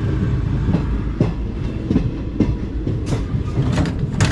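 Passenger train running, heard from inside a coach: a steady low rumble of the coach with irregular clacks of the wheels over rail joints.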